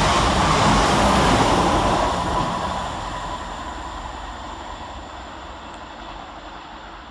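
Two coupled Class 444 Desiro electric multiple units passing at speed and moving away, their loud running noise fading steadily from about two seconds in. A thin whine drops a little in pitch as it fades.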